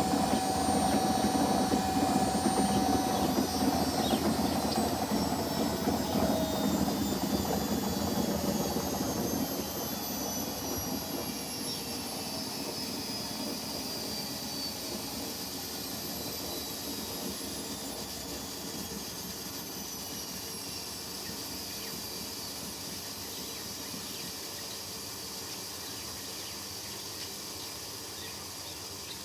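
Washing machines in spin cycle: motor whine and the rush of the spinning drums, with several high tones gliding slowly down. The sound drops in level from about ten seconds in as the drums slow.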